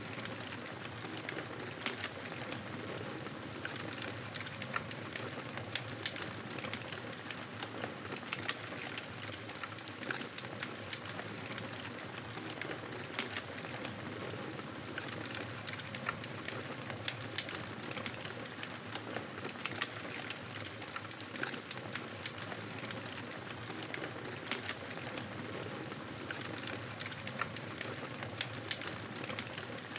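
Fireplace fire crackling: a steady hiss dotted with many small, irregular pops.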